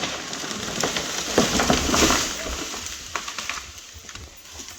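A large tree coming down: a dense run of cracking and snapping branches crashing through brush, loudest about a second and a half to two seconds in, then dying away.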